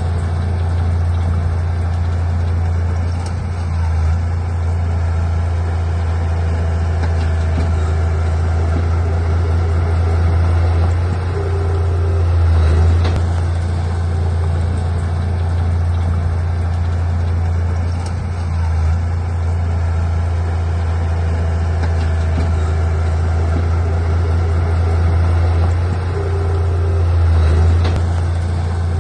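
Heavy diesel engine of an earthmoving machine running steadily with a deep drone, swelling briefly a couple of times.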